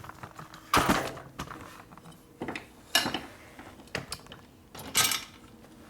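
Small metal parts and hand tools being handled in a workshop: a series of sharp metallic clinks and clatters, loudest about a second in, at three seconds and at five seconds.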